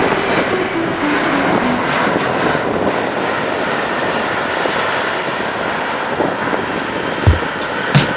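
Airliner engines giving a steady broad roar as the aircraft passes; a few sharp beats come in near the end.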